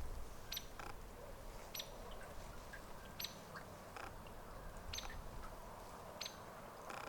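Hairy woodpecker giving short, high calls, about six of them, roughly one every second, over a steady background hiss.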